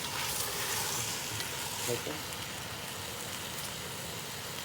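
Food sizzling steadily in a pan of chicken and shrimp curry on the stove.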